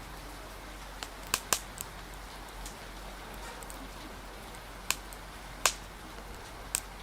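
Wood fire crackling, with about seven sharp pops, several close together a little over a second in and single loud ones near the end, over a steady hiss of rain.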